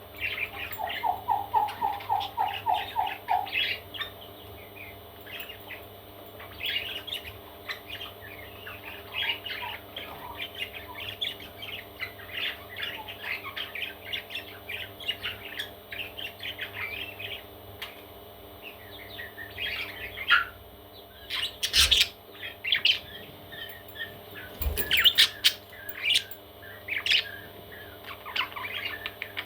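Parrot chicks chirping and squawking in quick, high clusters, with a short run of about eight lower, evenly spaced calls near the start. Two sharp knocks come about three-quarters of the way through.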